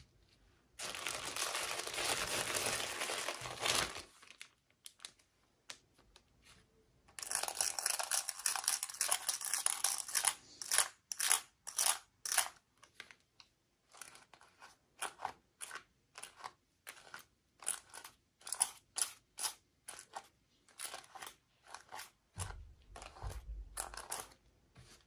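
Packaging being torn open and crinkled by hand: two long tearing, rustling stretches, then many short crinkles, with a few dull low thumps near the end.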